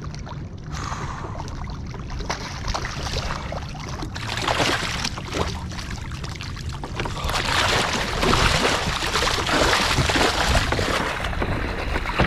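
Water splashing and sloshing at the side of a kayak as a hooked sailfish is brought alongside, in irregular bursts that grow louder about four seconds in and again for several seconds past the middle. Wind rumbles on the microphone underneath.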